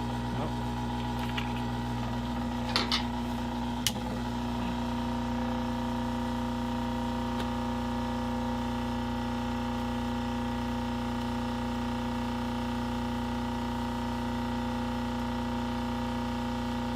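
Heat gun's fan motor running in a steady, pitched hum as it cools down, with two sharp clicks about three and four seconds in.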